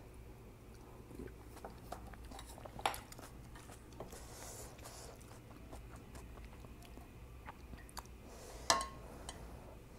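Close-up chewing of spicy ramyun noodles and oyster pancake, with soft wet mouth clicks throughout. Two sharper clinks cut through, one about three seconds in and a louder one near the end with a brief ring.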